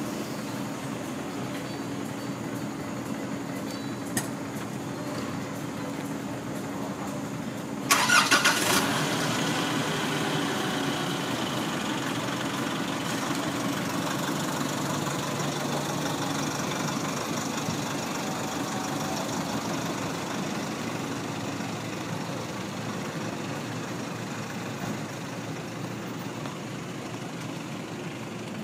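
A motor vehicle engine running steadily, with a sudden loud burst about eight seconds in. The engine is louder after the burst and slowly fades.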